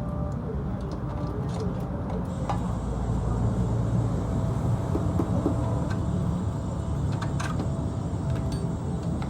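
A motorcycle engine running steadily, with a slight rise in level about three to five seconds in and a few faint clicks over it.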